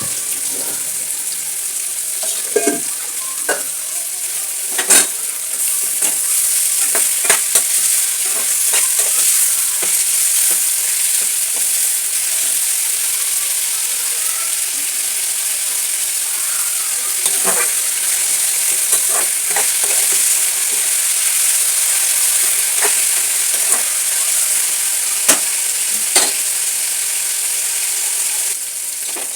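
Chicken curry frying and sizzling in a pan with a steady hiss, while a spoon stirs it and scrapes or knocks against the pan at irregular moments.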